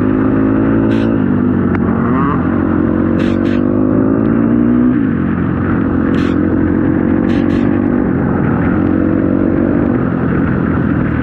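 Four-stroke single-cylinder dirt bike engine (KTM 250 SX-F) under way on a trail, its pitch climbing and dropping several times as the rider works the throttle and gears. A few short sharp clicks are heard over the engine.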